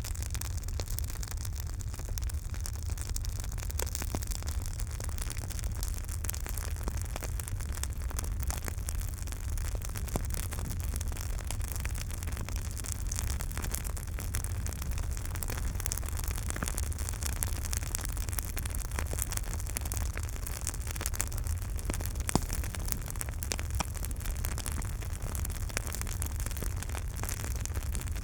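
Campfire burning: a steady low rumble and hiss of flames with frequent small crackles and pops of burning wood, one pop louder than the rest about three-quarters of the way through.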